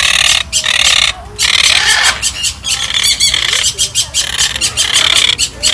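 Large parrots screeching, loud harsh calls repeated one after another with short breaks between them.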